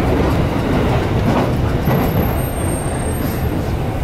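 Running noise of a JR Musashino Line electric commuter train heard from inside the carriage: a steady, loud rumble of wheels on rail at speed. A faint high whine joins in about two seconds in.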